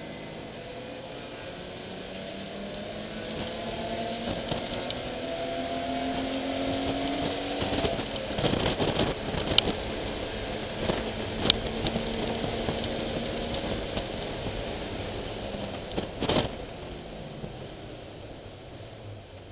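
BMW E30 325iS's M20 straight-six race engine heard onboard, pulling up through the revs for several seconds. Sharp knocks and rattles follow, and the engine eases off near the end.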